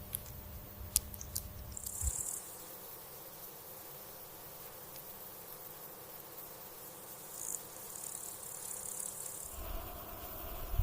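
Faint insect sounds: a few light ticks, then a high, thin insect buzz or chirp about two seconds in and again for a couple of seconds near the end.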